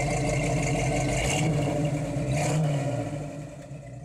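A car engine running, its pitch rising slightly about halfway through and easing back, then fading out near the end.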